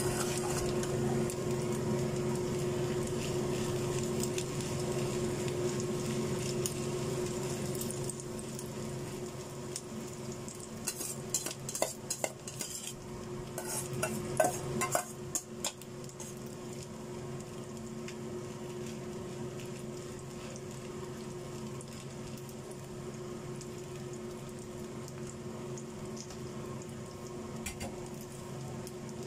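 Rice, potato and egg pancake sizzling in oil in a wok over a steady hum. From about 11 to 16 seconds in, metal clinks and scraping come as the mixture is scraped out of a steel bowl into the pan with a spatula.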